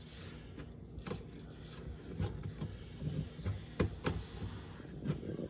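Irregular clicks and knocks from hands and tools working on the old dishwasher's fittings, over a low rumble, with the loudest knock a little under four seconds in.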